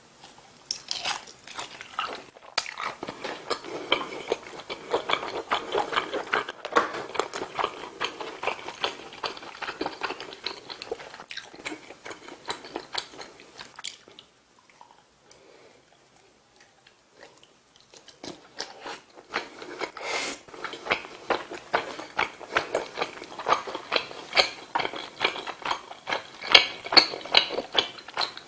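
Close-miked biting and chewing of sausage and rice-cake (tteok) skewers, with dense rapid clicking mouth sounds. The chewing stops for a few seconds about halfway through, then starts again.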